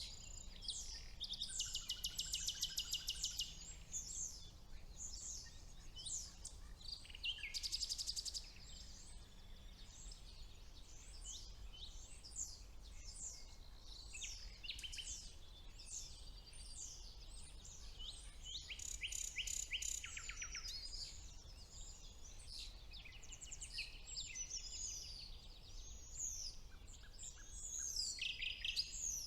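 Chorus of several songbirds singing over one another, with many short chirps and whistles. It includes common nightingale song with loud, fast repeated-note trills three times, the longest about a second in and again near the middle.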